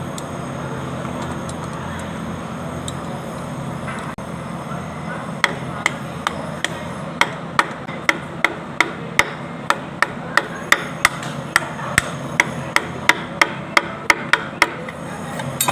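A hammer tapping in a run of sharp, evenly spaced strikes, about three a second. The strikes start about five seconds in, over a steady background hum.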